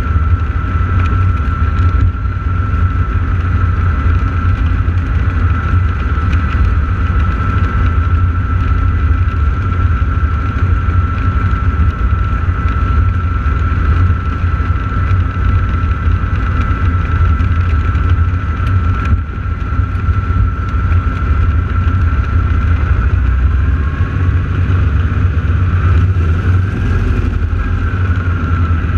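Radial piston engines of T-6 Texan warbirds running steadily on the ground before takeoff: a deep, continuous engine rumble with a steady high whine over it.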